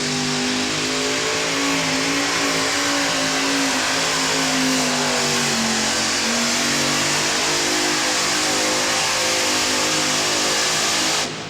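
Modified pulling tractor's engines running flat out under load during a pull, loud and steady; the engine note sags slightly about halfway through and then climbs back. The sound cuts off abruptly near the end.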